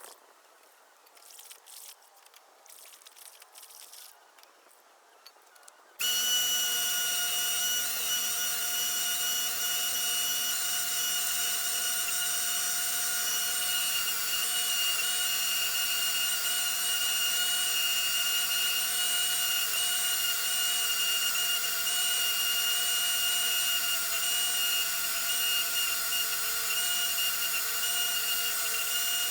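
Faint, intermittent scraping for several seconds, then an electric power tool suddenly cuts in already at full speed and runs on with a steady, high whine that holds one even pitch.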